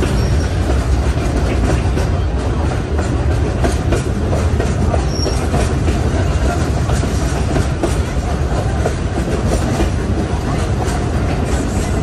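Passenger train running along the track: a steady rumble of carriage wheels on the rails, with faint clicks over the rail joints.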